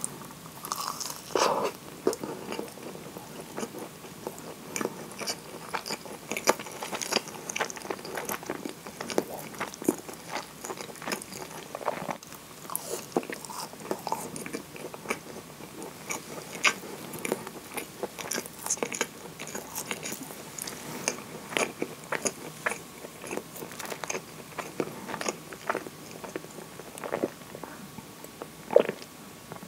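Close-miked chewing of a moist kinako (roasted soybean flour) scone dipped in maple syrup: a steady run of soft, wet mouth clicks and small crackles. Near the end comes a louder sound as she drinks from a glass of coffee.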